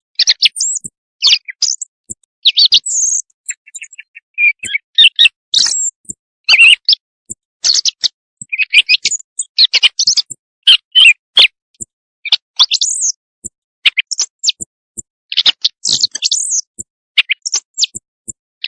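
Recorded bird calls of the kind played as a hunting lure: a dense run of short, high chirps and twittering notes with brief gaps between them.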